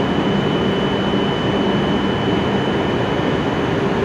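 E7 series Shinkansen train standing idle at the platform, its onboard equipment running with a steady drone and a thin, high-pitched whine.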